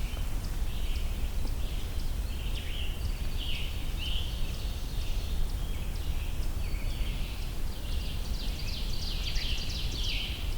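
Woodland songbirds singing: a steady stream of short, high, down-slurred notes, over a low background rumble.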